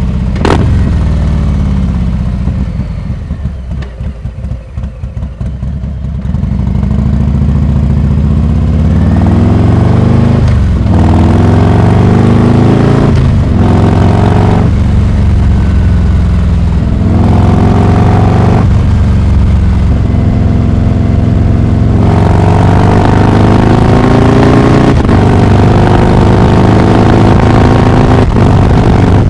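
Harley-Davidson Heritage Classic 114's Milwaukee-Eight V-twin through a Rinehart exhaust, with a short sharp crack about half a second in. The engine drops to low revs and goes quieter for a few seconds, then accelerates hard. Its pitch climbs and falls back repeatedly as it runs up through the gears.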